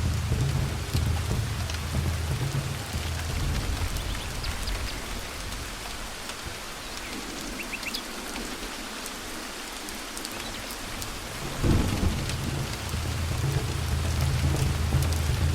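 Thunderstorm: steady rain falling with deep rolling thunder. The rumble dies away around the middle, then a sudden clap of thunder comes near the end and the rolling thunder builds again.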